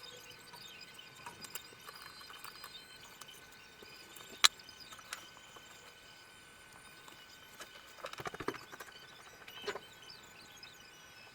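Scattered small clicks and taps from handling the parts of a Dell Inspiron 24 5400 all-in-one PC during disassembly. There is one sharp click about halfway through and a short rattle of clicks near the end, over a faint steady hum.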